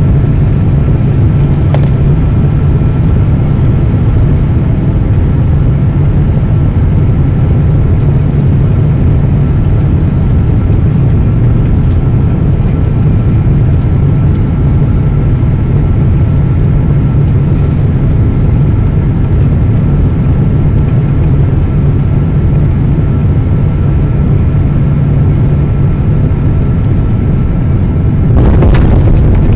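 Steady loud cabin rumble of a Boeing 777-200 during landing, heard from a passenger seat: engine and airflow noise with a constant low hum and a faint high whine. A louder rush starts near the end.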